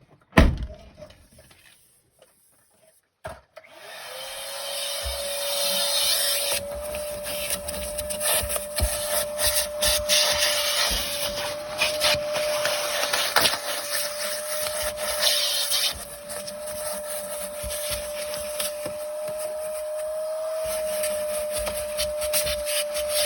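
A couple of knocks, then a vacuum cleaner switched on: the motor spins up to a steady whine over a loud rushing hiss. The nozzle rubs and scrapes as it works over the SUV's seats and carpet.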